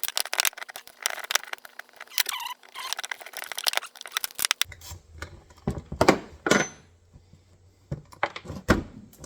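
Wrench and bolts clicking rapidly against a steel MB 550 foothold trap while its base-plate bolts are undone, followed by a few louder metallic clanks as parts are handled.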